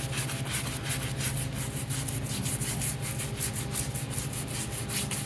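Brisk rhythmic scrubbing, about five strokes a second, over a steady low hum.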